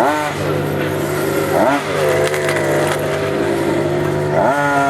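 A vehicle engine running with a steady low note, blipped several times so its pitch sweeps up and falls back: once at the start, again at under two seconds, and once more near the end.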